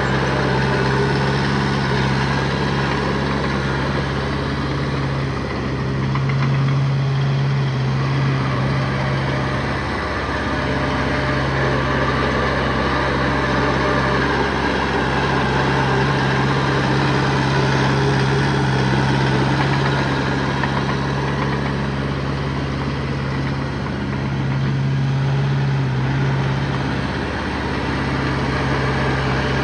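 Diesel engine of heavy earthmoving machinery running steadily, its low hum swelling briefly twice as the load changes.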